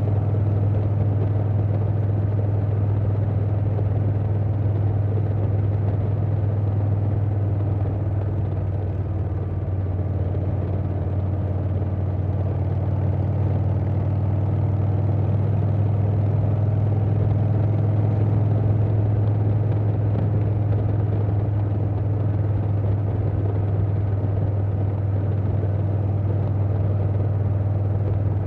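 Harley-Davidson Softail Standard's Milwaukee-Eight V-twin running through a Vance & Hines Big Radius 2-into-2 exhaust, holding a steady low rumble at cruising speed, easing off slightly about a third of the way in.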